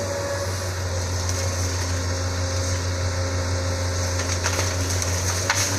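Isuzu 6BG1 six-cylinder diesel engine of a Sunward SWE210 excavator running steadily, a low drone with a steady higher tone over it. A few sharp knocks and cracks come near the end.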